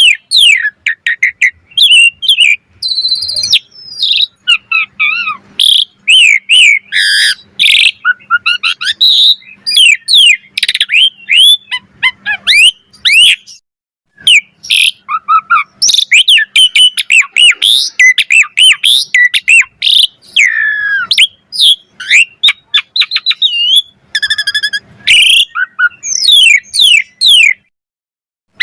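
Asian pied starling (jalak suren) singing a fast, varied song of whistles, chirps and quick down-slurred notes, with short breaks about halfway through and near the end.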